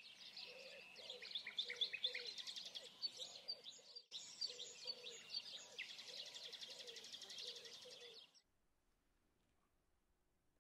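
Birdsong: several birds chirping and trilling at once, with a short break just after four seconds; it stops about eight seconds in.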